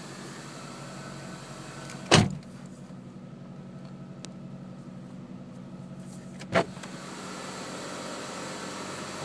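2003 Mitsubishi Eclipse RS four-cylinder engine running at a high cold idle on its first start of the day near freezing. Two loud thumps sound over it, about two seconds in and again about four seconds later.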